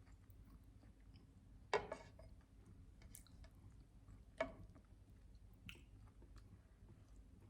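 Close-miked wet chewing of a syrup-covered sandwich: two loud sticky smacks about two and a half seconds apart, with faint mouth clicks between them.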